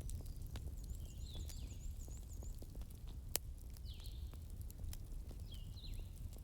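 Wood fire crackling, with scattered sharp pops over a low steady rumble and one louder pop about halfway through. Short bird chirps repeat every second or so in the background, with a quick run of high notes early on.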